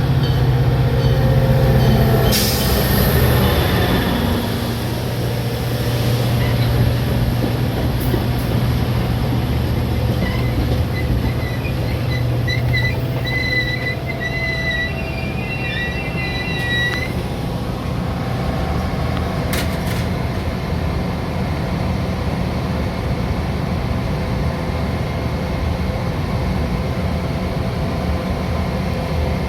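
Metra commuter train rolling with a steady low rumble. Wavering high-pitched wheel squeal comes in about a third of the way through and lasts several seconds, with a few sharp clicks along the way.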